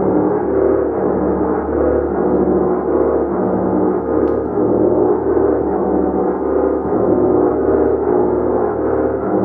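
Gong being played continuously with repeated soft mallet strikes: a loud, dense, sustained ringing wash that swells in a steady, even pulse without pause.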